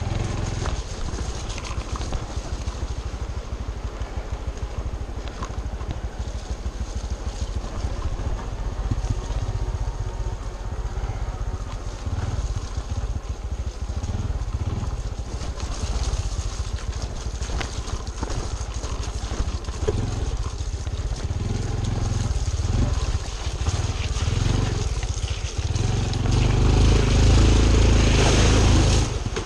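Honda CT125 Trail 125's single-cylinder engine running as the motorcycle rides along a trail, with rumbling noise, getting louder about three seconds from the end.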